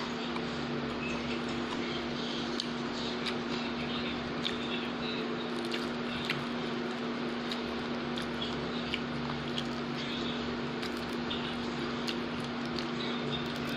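Close-up chewing and wet mouth sounds of someone eating a fried bean-sprout (togue) snack, with many small scattered clicks, over a steady low hum.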